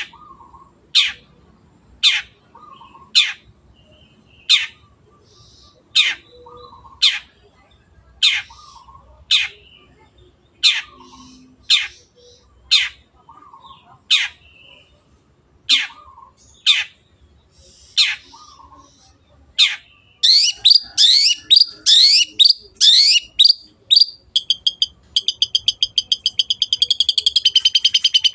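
Long-tailed shrike (cendet) calling: sharp, harsh notes that drop steeply in pitch, about one a second. About twenty seconds in it breaks into fast, varied chattering, then a rapid trill that speeds up.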